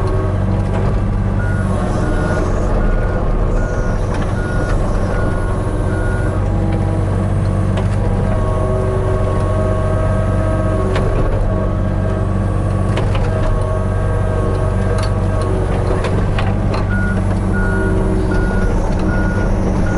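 Hitachi 35U mini excavator's diesel engine running steadily under work, with its travel alarm beeping rapidly from about a second and a half in to about six seconds, and again near the end. A few sharp knocks and clanks sound over the engine.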